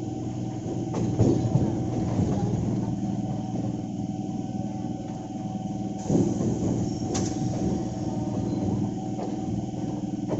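Electric multiple-unit (EMU) suburban train running, with a steady electrical hum from its traction equipment and the clatter of wheels on track. Sharper knocks come about a second in and about seven seconds in.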